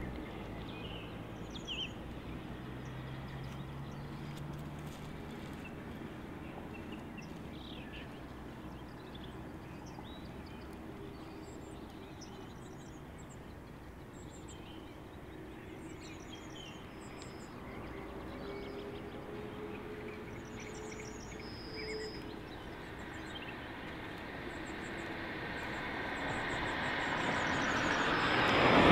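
Approaching train on the line, a rumble that grows steadily louder over the last few seconds. Small birds chirp repeatedly throughout.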